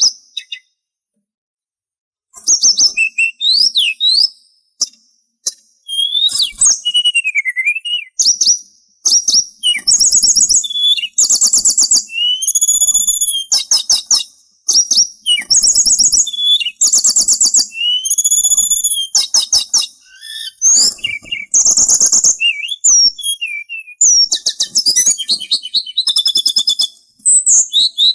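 Sulingan songbird singing a varied song of high whistled glides and fast trills, phrase after phrase, after a short pause near the start.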